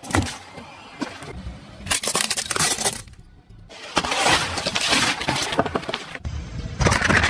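Objects crunching, cracking and breaking as a car's tyres roll over and crush them, in several separate stretches that start and stop abruptly.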